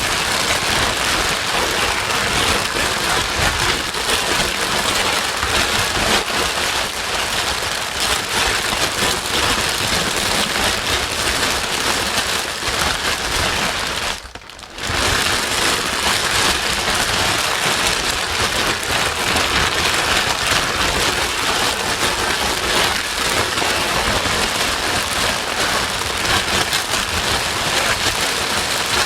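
Steady, rain-like hiss of white noise played to soothe a crying baby, dipping briefly about halfway through.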